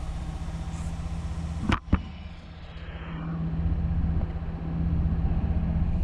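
Volvo 2.4 non-turbo inline five-cylinder engine running at steadily held revs, with an intermittent cylinder 1 misfire that the owner feels as a shake and hunting. Two sharp clicks come a little under two seconds in; the engine sound then dips and swells up again.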